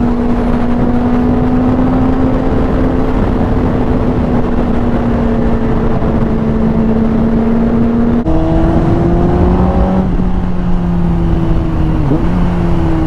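Honda CBR600RR sport bike's inline-four engine running at steady high revs under way, with wind rushing over the microphone. About eight seconds in, a gear change drops the engine note; it then climbs a little and falls off near the end.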